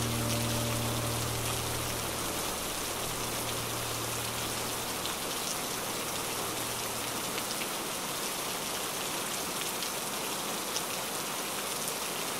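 Steady rain pattering on a window pane, an even hiss with scattered individual drop ticks. The last low notes of the background music fade out in the first few seconds.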